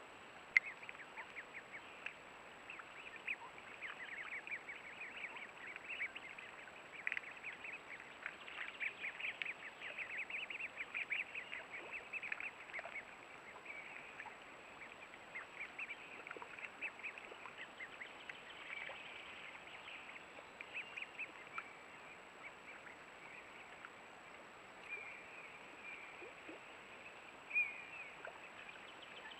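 Mallards calling: a busy run of short quacks and chatter, thickest in the first half and thinning to scattered calls later.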